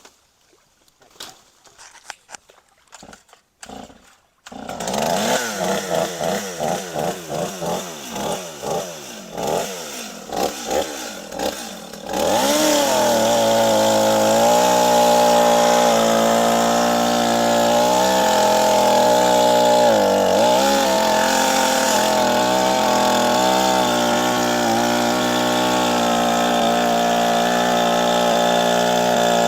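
Two-stroke chainsaw being started: after a few faint clicks the engine fires unevenly for several seconds, then catches about twelve seconds in and runs steadily, its pitch dipping briefly near the twenty-second mark.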